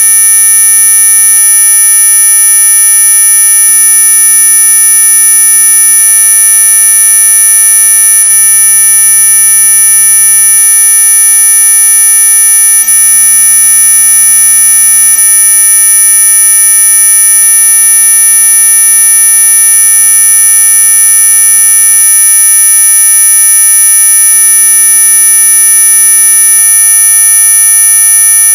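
Synthesized anti-mosquito repellent tone: a loud, steady electronic buzz of many pitches sounding together, topped by a shrill high whine, held unchanging.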